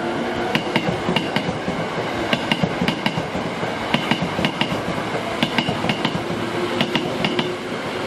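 Train wheels clicking over rail joints in quick pairs and threes as the train rolls slowly, over a steady rumble.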